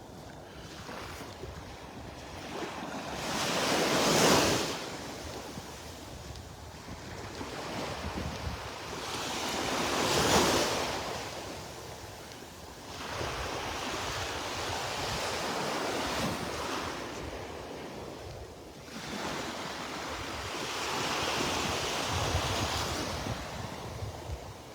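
Small Gulf of Mexico waves breaking and washing up the beach, the hiss swelling to loud peaks about four seconds in and again about ten seconds in, with more surges after. Wind buffets the microphone underneath.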